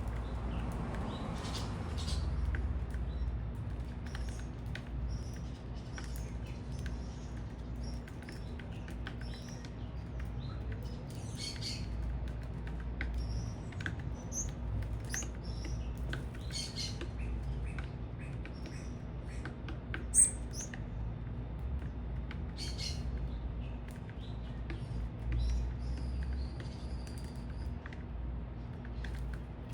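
Small birds chirping and calling at a feeder: many short high chirps scattered through, one sharp louder call about twenty seconds in, and a few drawn-out whistled notes near the end, over a low steady rumble.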